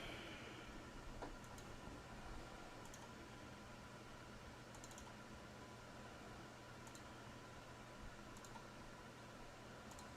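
Faint, scattered clicks of a computer keyboard and mouse, a few seconds apart, over a steady low electrical hum.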